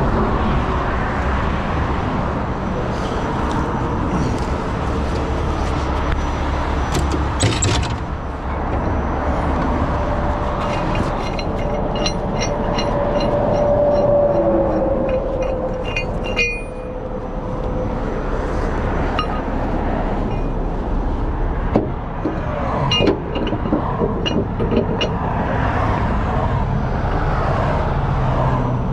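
Heavy tow truck's diesel engine running with a steady rumble, a whine that rises and then falls about midway, a run of light ticks, and two sharp knocks later on.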